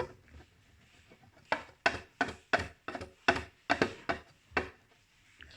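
A quick run of about ten sharp taps or knocks on a hard surface, roughly three a second. They start about a second and a half in and stop after about three seconds.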